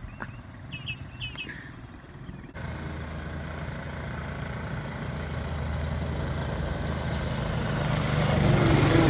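A small off-road vehicle engine runs steadily, cutting in suddenly about a third of the way in and growing louder over the last few seconds. Before it, there are only a few faint chirps and clicks.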